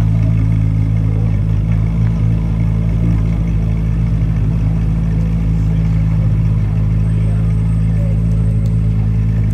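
2023 Corvette Z06's 5.5-litre flat-plane-crank V8 idling steadily, with a deep even tone and no revs, as the car creeps slowly up a ramp into an enclosed trailer.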